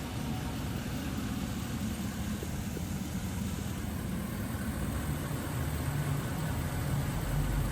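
Steady low engine and road rumble inside the cab of a 2024 Ram 1500 Laramie with its 5.7-litre Hemi V8, driving in four-wheel drive on a light snow cover. The rumble grows a little louder near the end.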